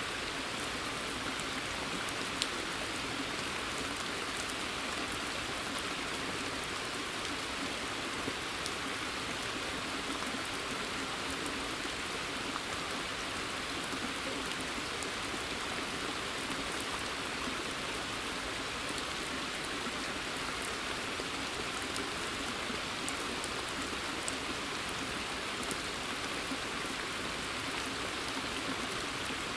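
Steady rain falling in a forest and onto still water, an even hiss with occasional single drops standing out as small sharp ticks.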